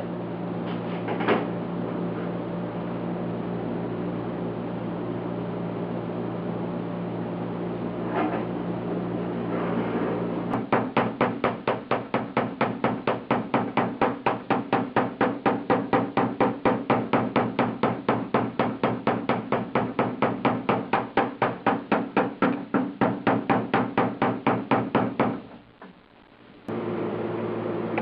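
Light, rapid hammer blows on a steel car door panel, worked through a block of wood, at about five taps a second for most of the second half after a few scattered knocks. The many small hits are straightening warpage that welding in a patch panel caused.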